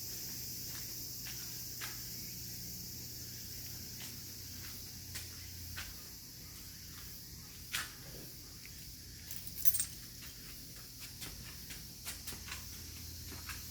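Steady high-pitched insect chorus, with scattered light clicks and taps throughout; the sharpest click comes about eight seconds in and a short cluster of taps follows near ten seconds.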